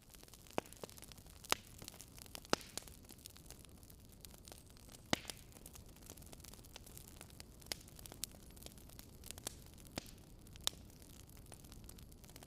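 Wood fire crackling: a steady low rumble of flames with sharp, irregular pops and snaps every second or so.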